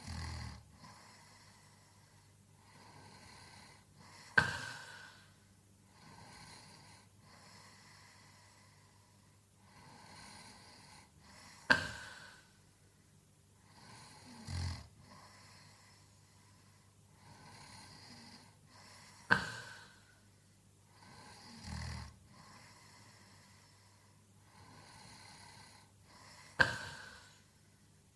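A sleeping man snoring with slow, regular breaths, about one every seven seconds. Each breath has a sudden loud snort and, a few seconds later, a lower rumbling snore. A faint steady low hum runs underneath.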